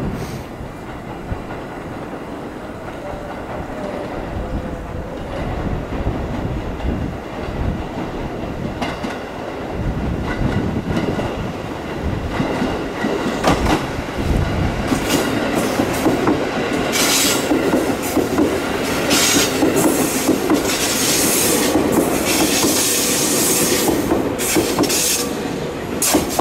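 Five-car JR 211-series electric multiple unit rolling slowly into the station over pointwork. Its wheels clack over rail joints and switches, getting louder and busier as the train draws up close alongside.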